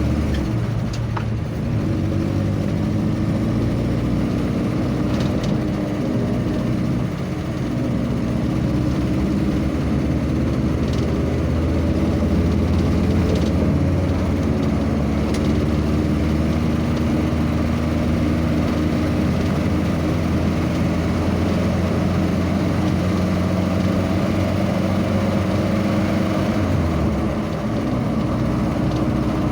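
Motor vehicle engine running steadily on the move, with its note shifting about seven seconds in and again near the end.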